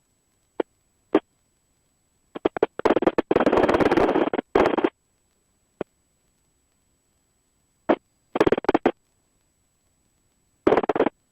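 Helicopter intercom audio cutting in and out: short clicks and bursts of rushing noise, each chopped off abruptly as the squelch gate opens and shuts, with dead silence between. The longest burst runs about two and a half seconds, with shorter ones near the end. A faint high steady tone sits under it all.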